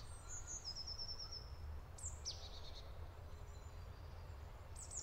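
Woodland birds singing faintly: a quick run of repeated high notes about half a second in, then a couple of high descending whistles around two seconds in and another near the end, over a low background rumble.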